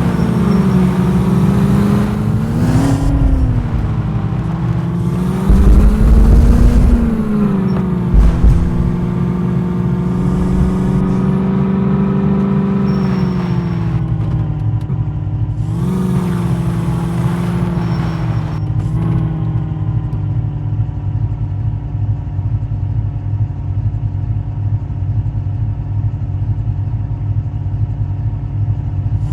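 Jeep engine running under load, its pitch rising and falling repeatedly as it is revved and eased off. There are a few heavy low thumps about six and eight seconds in. For the last ten seconds it settles to a steady drone.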